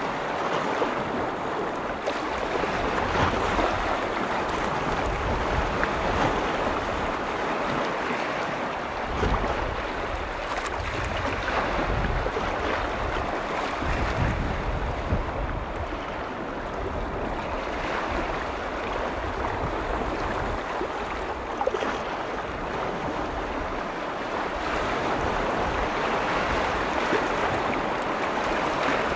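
Lake waves rolling in on Vänern: a steady rushing wash that swells and eases every few seconds. Wind rumbles on the microphone now and then, most around the middle.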